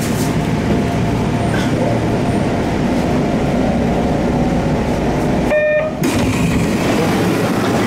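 Kintetsu commuter train running, heard from inside the passenger car: a steady, loud rumble of motors and wheels on the rails. About five and a half seconds in it breaks off for half a second, with a short clear tone in the gap, then carries on.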